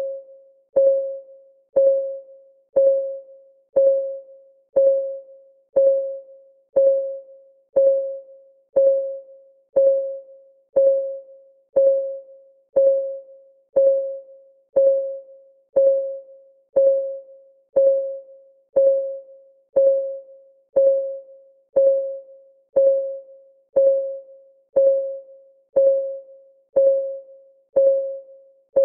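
Countdown timer's clock-ticking sound: a short, pitched tick about once a second that dies away quickly, steady and even.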